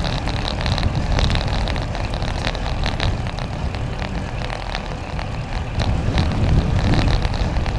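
Strong headwind rushing over the microphone of a moving bicycle: a steady low rumble of wind noise, with frequent short ticks through it.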